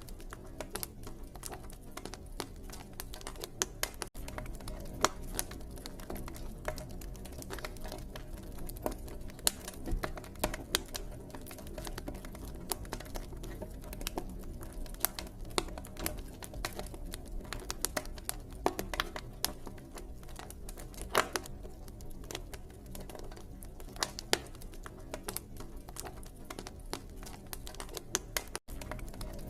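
Campfire crackling: burning wood giving off irregular sharp pops and snaps, some louder than others, over a steady low rush of flames.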